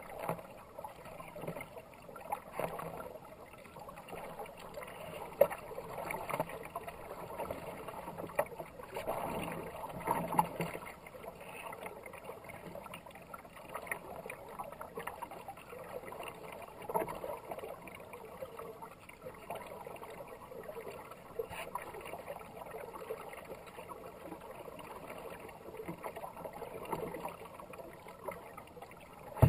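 Kayak paddle strokes dipping and splashing one after another, with water rushing along the hull, and a few sharper splashes along the way.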